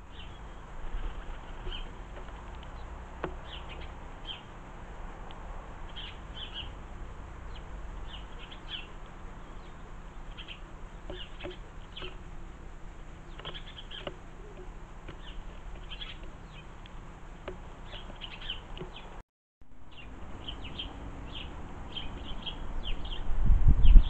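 Garden birds chirping: many short, high chirps repeated every second or so. Near the end a loud low rumbling noise comes in beneath them.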